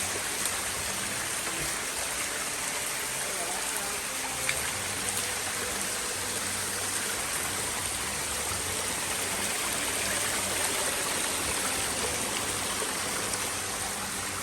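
Jungle waterfall rushing steadily, a constant wash of falling water.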